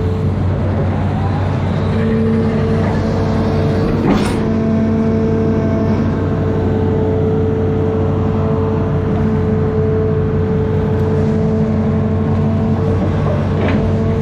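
Amphibious excavator's diesel engine running steadily at working speed, with a steady whine over the engine drone. A sharp knock comes about four seconds in and another near the end.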